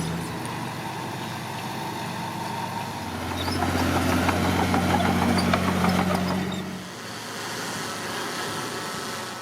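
Heavy diesel engine of earthmoving equipment running steadily. About three seconds in it comes up to a louder working pitch with a rattle of clanking, and it drops back near the end.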